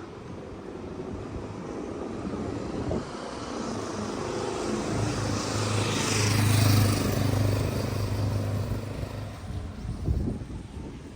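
An engine passing by: a steady low hum that grows louder, peaks about two-thirds of the way through, then fades.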